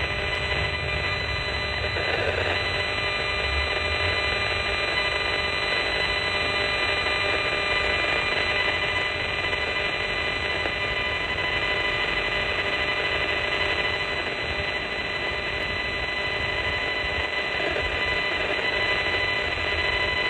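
A radio-frequency meter's audio output giving a steady, dense buzzing static with several fixed tones running through it. This is the audible rendering of the high-frequency radio signals it is picking up, which the owner takes for strong HF radiation.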